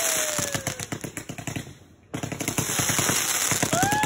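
Fireworks going off: a dense, rapid crackle of small pops from rising comets with sparkling, crackling tails. A whistle slides down in pitch and fades in the first second. The crackling drops out briefly about two seconds in, then resumes, and a new whistle starts near the end.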